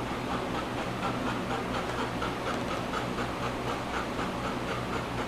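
Black Labrador retriever panting rapidly and evenly, about three to four breaths a second, as it recovers from an epileptic seizure, over a steady low hum.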